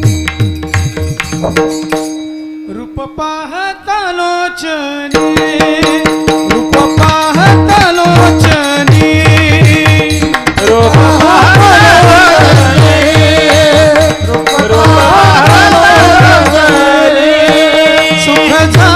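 Devotional kirtan singing: a male voice sings an ornamented melody over a steady held note and rhythmic hand-drum playing. The drum stops for a few seconds near the start and then resumes. The voice comes in around seven seconds and grows louder.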